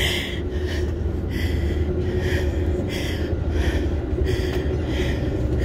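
Steady low rumble of a moving passenger train heard inside the coach, with a person breathing hard in quick, short breaths close to the microphone.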